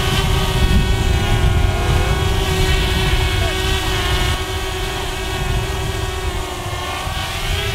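DJI Mavic Air quadcopter's propellers whining at a steady pitch as it hovers, over a rumble of wind on the microphone.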